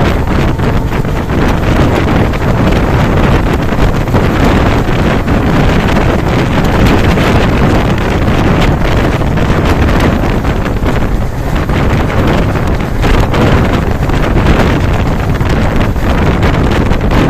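Train hauled by an Alco WDP3A diesel locomotive running at speed: a loud, steady rush of running noise heavily buffeted by wind on the microphone, with fine rapid clatter throughout.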